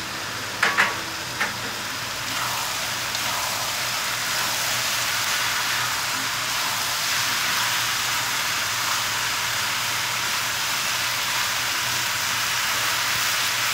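Bottle gourd strips sizzling in a hot wok with a little added water, a steady frying hiss that grows slightly louder about two seconds in. A couple of sharp knocks near the start are a metal spatula striking the wok as the gourd is stirred.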